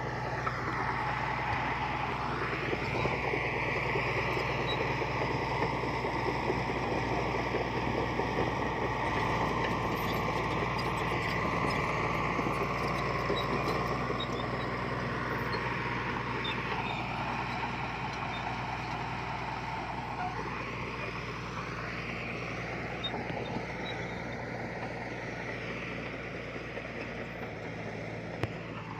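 Heavy diesel earthmoving machinery running steadily, its engine note shifting up and down a few times.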